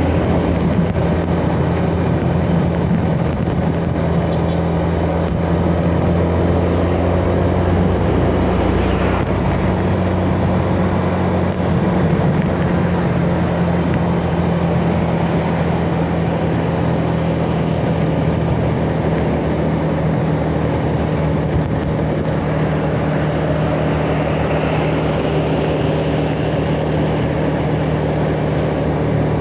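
Yamaha Jupiter Z single-cylinder four-stroke underbone motorcycle engine running steadily while riding, heard from the rider's chest, its note shifting once about nine seconds in.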